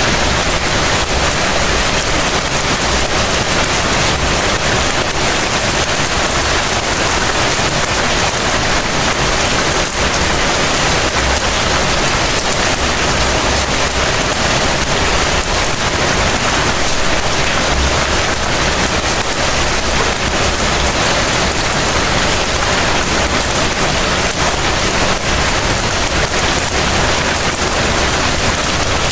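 Heavy rain falling steadily, an even dense hiss with a low rumble underneath.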